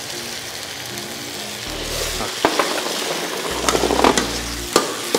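Onion paste sizzling in hot oil in an iron kadai. The sizzling grows louder about two seconds in as a metal ladle stirs it, and the ladle clicks and scrapes against the pan a few times.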